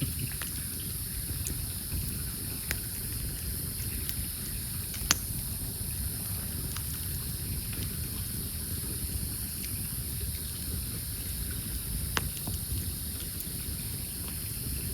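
Campfire burning: a few sharp crackles and pops from the burning wood, the loudest about five seconds in and another about twelve seconds in, over a steady low rumble.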